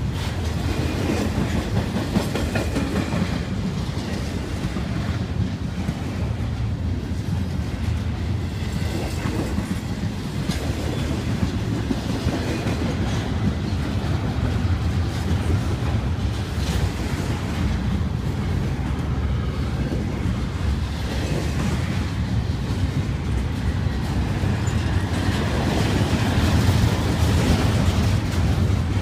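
Double-stack intermodal freight train's well cars rolling past: steel wheels clicking over the rail joints above a steady low rumble, a little louder near the end.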